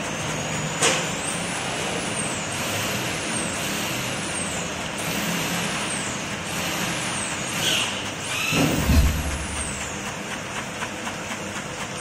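Cassava chip slicing machine running with a steady mechanical hum, joined by a string of about seven short, high falling whistles and a louder stretch of low rumbling and knocking about nine seconds in.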